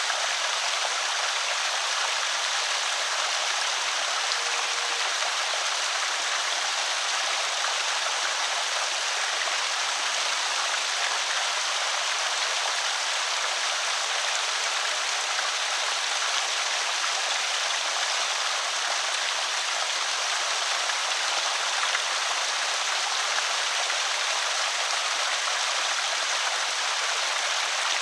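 Water pouring steadily over a small creek spillway, a constant trickling rush with no let-up.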